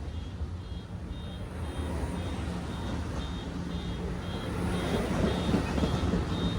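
Diesel locomotive of an approaching Amtrak train rumbling, growing steadily louder, while a high electronic beep repeats about twice a second.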